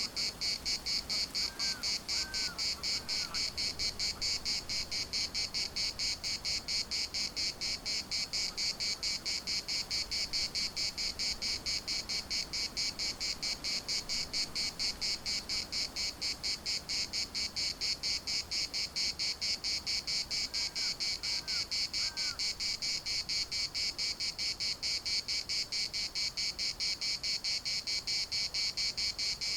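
Chorus of cicadas singing as a dense, high buzz that pulses about three times a second. Faint short chirps come in two runs of three, one near the start and one about two-thirds of the way in.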